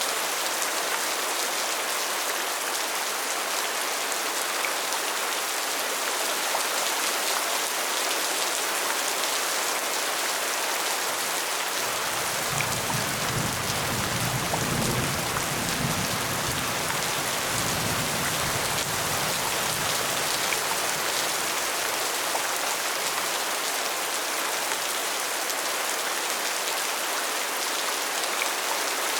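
Steady rain falling, a dense even patter. About halfway through, a low rumble joins in for several seconds and then fades.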